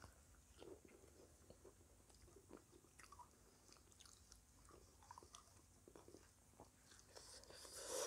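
Faint close-up chewing and biting of crisp fried snacks, with small crunches and mouth clicks. Near the end, a louder crackle as a crisp fried pastry is torn apart by hand.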